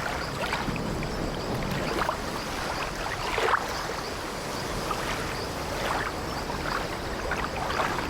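Wooden ship ambience: a steady wash of sea water against the hull, with short creaks of the old ship's timbers at irregular intervals, the loudest about three and a half seconds in.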